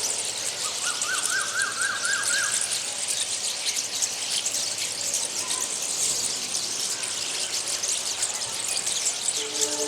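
A flock of small birds chirping and twittering together in a dense, continuous chorus, with a run of about eight quick rising-and-falling notes between one and three seconds in. A train horn starts sounding just before the end.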